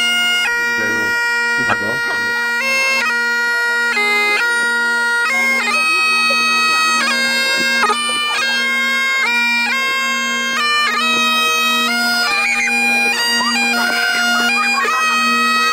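Scottish bagpipes playing a tune: melody notes stepping up and down over one steady, unbroken drone.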